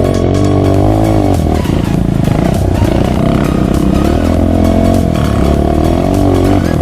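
Off-road vehicle engine revving up and down, its pitch rising and falling again and again.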